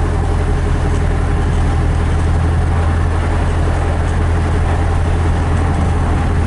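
1975 BMW 2002 on the move, heard from inside the cabin: a steady drone from its four-cylinder engine under road and tyre noise. A sign of a smooth-running engine and an even cruise; the driver calls it quiet.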